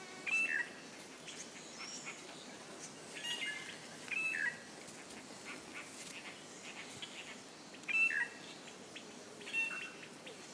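Bird calls in a forest: about five short chirps spaced a few seconds apart, each dipping in pitch, over faint steady background ambience.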